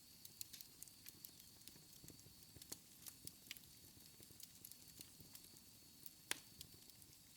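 Wood fire in a fireplace crackling: irregular sharp pops and snaps over a soft low rumble of flames, with one louder pop about six seconds in.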